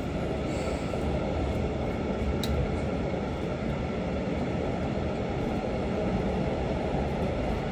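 Passenger train running along the track: a steady rumble of wheels on rails, with a faint tick about two and a half seconds in.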